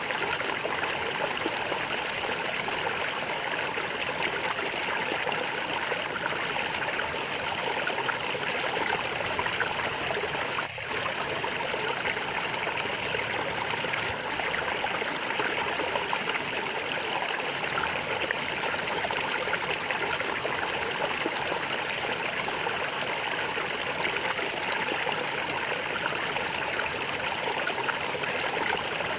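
A stream of water flowing and gurgling steadily, with a brief momentary dip about eleven seconds in.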